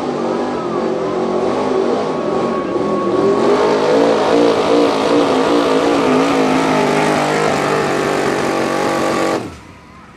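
Street 4x4 pickup truck's engine running hard under full load while pulling a weight sled, its pitch wavering up and down as the revs rise and fall. The engine sound cuts off suddenly a little over nine seconds in.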